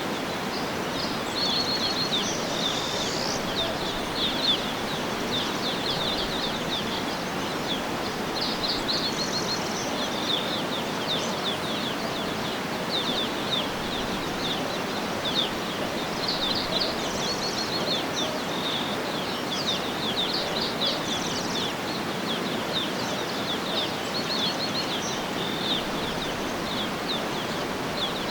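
Several small birds chirping and twittering over a steady, even rushing background, such as a stream or wind in foliage.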